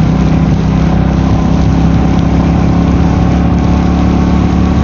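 Royal Enfield Meteor 350's single-cylinder engine running at a steady, even cruise, over a constant hiss of wind and wet road noise.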